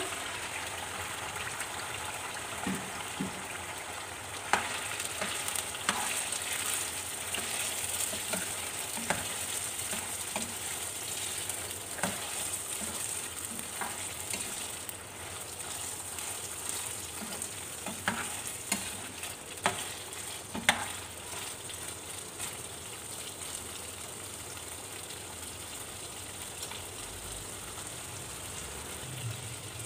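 Beef liver pieces sizzling in hot ghee in a frying pan, with a spoon stirring them and knocking against the pan now and then.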